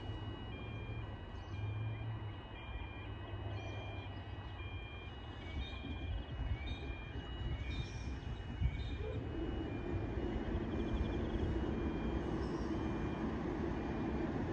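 Repeating electronic warning beeps alternating between two pitches for the first eight seconds or so. Then the diesel engine of an approaching Endeavour railcar comes in and slowly grows louder.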